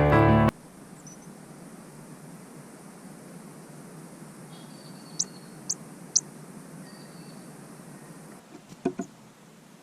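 Music cuts off about half a second in, leaving a steady faint outdoor hiss. Around the middle a small bird gives three short high chirps, and near the end come two quick knocks.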